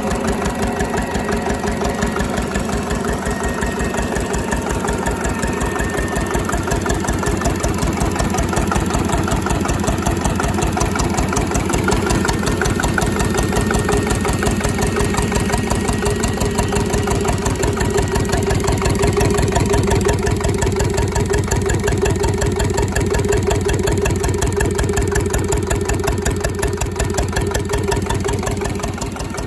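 Slavia 8 hp single-cylinder stationary diesel engine running steadily at idle, with an even, rapid chug of firing strokes.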